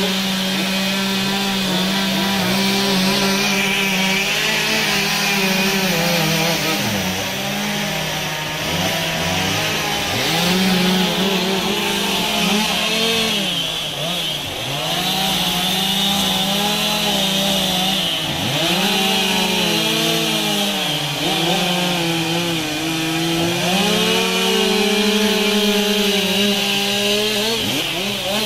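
Chainsaw carving wood, running at high revs throughout. The engine pitch sags and recovers again and again as the chain bites into the wood and the throttle is eased and opened.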